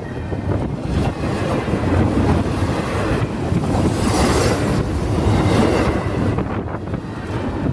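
CSX intermodal freight train's cars rolling past on the rails, a steady rumble that swells about midway, with wind buffeting the microphone.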